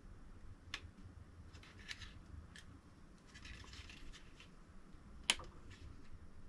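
Light clicks and rustling as printer parts and packaging are handled during unboxing, with a sharper click about five seconds in.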